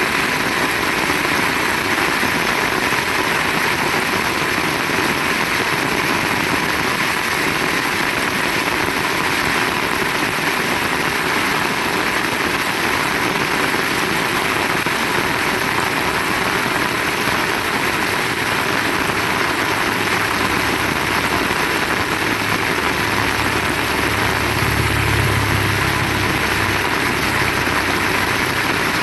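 Heavy rain pouring down steadily. In the second half a low rumble swells and fades.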